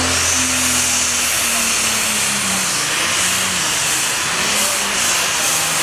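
Super stock pulling tractor engine running hard, a loud steady roar with a strong high hiss; a deeper engine note fades out about two seconds in.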